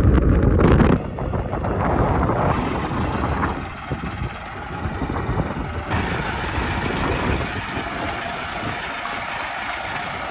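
Heavy diesel tractor engines running, loudest for about the first second and then settling to a steady run.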